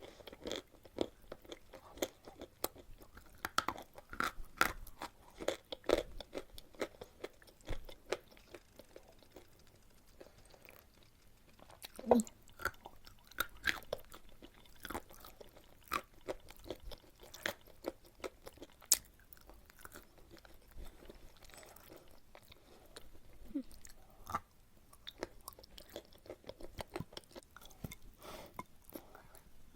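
A person chewing and crunching chalk close to the microphone: many small, irregular sharp clicks, with a few louder bites now and then.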